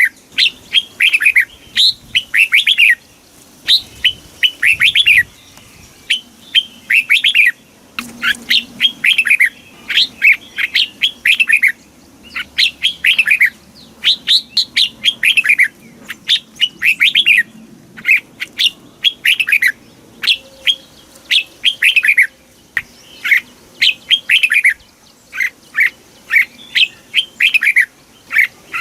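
Red-whiskered bulbul singing: loud, repeated short phrases of quick falling whistled notes, a new phrase about every second with brief pauses between.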